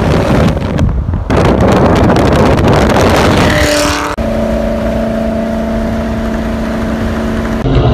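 Ford Mustang engine running loudly as the car pulls away, with rising revs about three seconds in. It then gives way abruptly to a steady drone holding a few fixed pitches.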